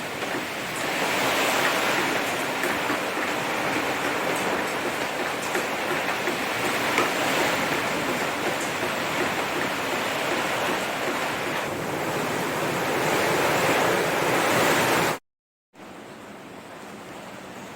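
Steady rushing of wind outdoors, swelling and easing a little. About fifteen seconds in it cuts off abruptly, and a quieter hiss follows.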